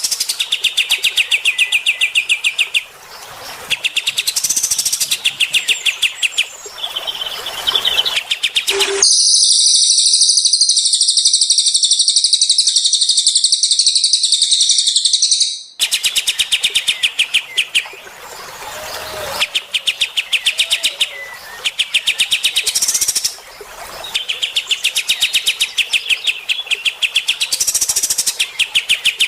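Recorded songs of cililin and kapas tembak birds. Bursts of very fast, high trills alternate with short pauses. About nine seconds in, a higher, denser, unbroken twittering song runs for several seconds before the trill bursts return.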